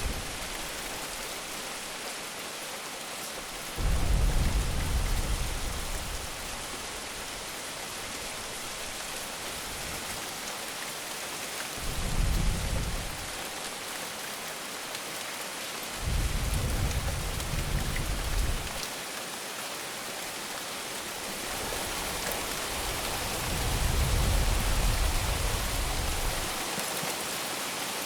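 Heavy monsoon rain falling steadily, with four low rumbles of thunder; the first comes in suddenly about four seconds in.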